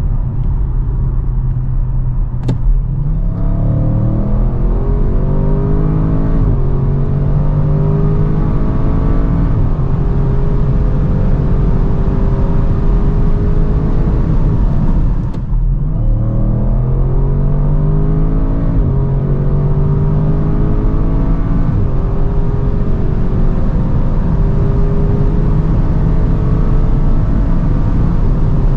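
Audi RS6 Avant's twin-turbo V8 at full throttle, heard from inside the cabin during a 100–200 km/h acceleration run. The engine note climbs steadily in pitch and drops back at each upshift every few seconds. After a brief break about halfway through, the same rise-and-shift pattern begins again.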